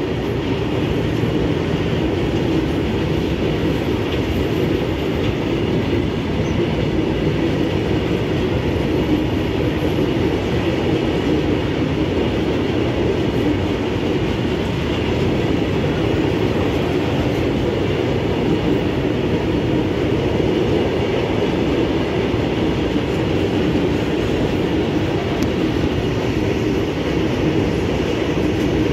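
Train running on the rails: a steady, loud noise of wheels on track that keeps on without a break.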